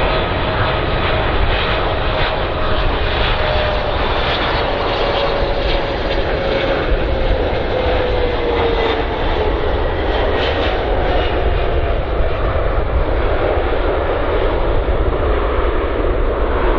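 Twin-engine jet airliner on landing, its engines producing a loud, steady roar with a faint whine that slowly drops in pitch over the first half as the plane passes.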